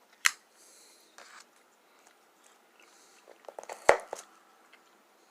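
A knife cutting through a chewy candy, with sharp clicks and knocks of the blade on a hard surface: one click near the start, then a quick run of taps ending in a loud knock about four seconds in.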